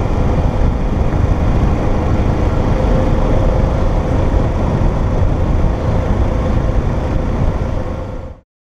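Motorcycle riding at road speed, heard from on the bike: steady engine, road and wind noise over the microphone. It fades out and stops just before the end.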